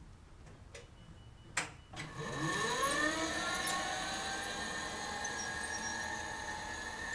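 Taylor Dunn 36-volt electric utility truck: a few light clicks and one sharp click about a second and a half in, then the electric drive motor's whine rising quickly in pitch as the truck pulls away and settling into a steady whine.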